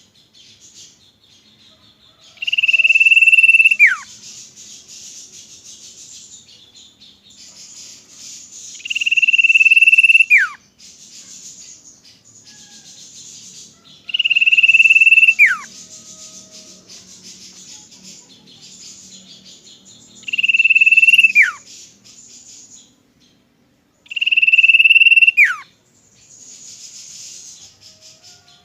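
Common iora singing its long whistle: one high note held for about a second, then a steep drop in pitch, repeated five times at roughly five- to six-second gaps. A fainter, steady high buzzing chorus fills the gaps between.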